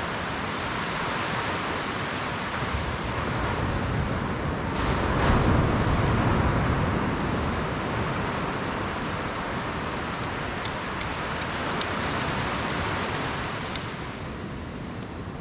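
Steady rush of surf and wind, swelling to its loudest about five seconds in and easing near the end.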